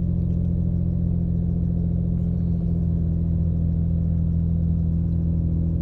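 Toyota Supra Mk4's straight-six engine idling steadily, a low even hum.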